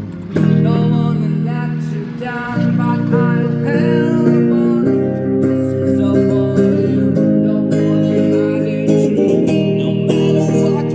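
Electric guitar playing sustained chords that change about every two seconds, with a melody line over them: an instrumental passage of a live cover song.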